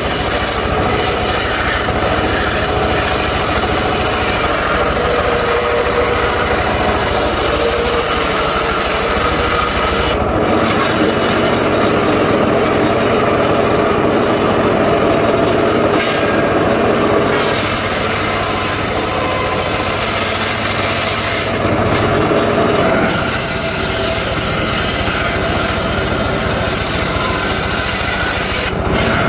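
Homemade engine-driven circular saw running and cutting sengon (albizia) wood, a loud continuous mechanical noise. The high hiss of the cut drops out and comes back a couple of times.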